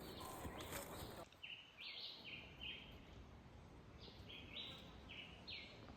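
A bird singing faintly: two phrases of short, clear high notes, each phrase about a second long, over a quiet natural background.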